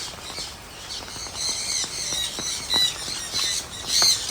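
Many aviary birds chirping and squawking in short, high, overlapping calls, with scattered sharp ticks among them.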